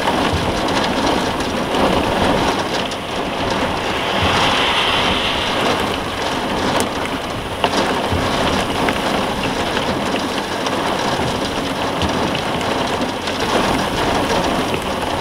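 Heavy rain and strong wind beating on a car, heard from inside the cabin: the rain foot of a storm's microburst, which the chaser takes it to be. The rush is steady, with a couple of sharp taps about halfway through.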